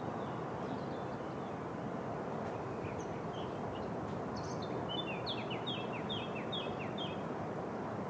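A songbird sings a quick run of short, falling high notes, about three a second, in the second half, after a few scattered chirps. A steady outdoor hiss lies underneath.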